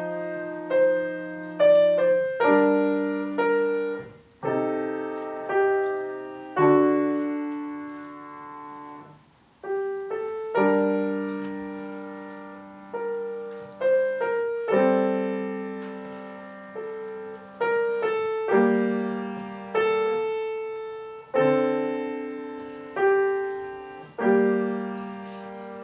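Solo piano playing a slow, simple piece: chords and melody notes are struck and left to ring and die away. There are short breaks in the phrasing about four and nine seconds in.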